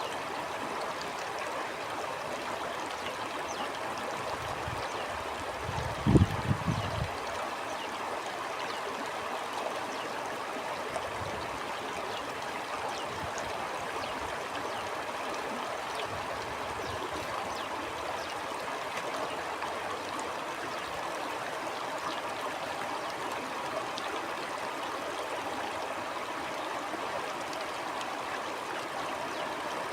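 Stream flowing steadily, a continuous rushing and gurgling of water. About six seconds in, a brief low rumble stands out as the loudest sound, with a few fainter low puffs later.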